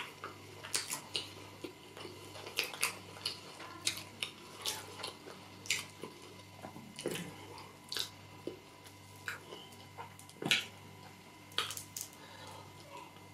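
Close-miked mouth sounds of eating fried fish picked apart by hand: chewing, lip smacks and finger licking, heard as irregular short wet clicks, one louder about ten and a half seconds in.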